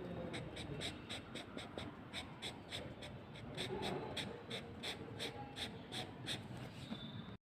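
Colouring strokes on paper: quick back-and-forth scribbling, about three or four strokes a second, faint and steady, as a drawn area is filled in with colour.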